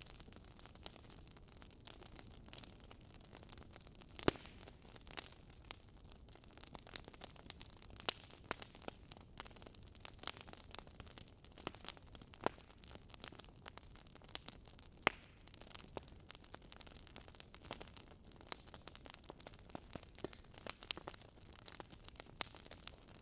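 Faint, irregular clicks and taps of kitchen utensils against a pan, grater and bowl, over a low steady hiss.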